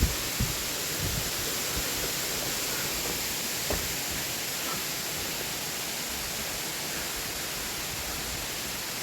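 Waterfall's steady rush of falling water, with a few faint knocks in the first four seconds.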